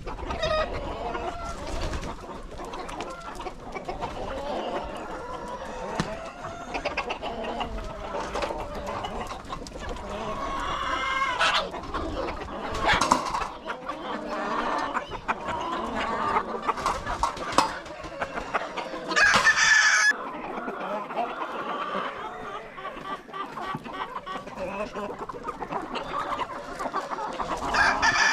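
Chickens clucking and calling, with one louder call of about a second roughly two-thirds of the way through.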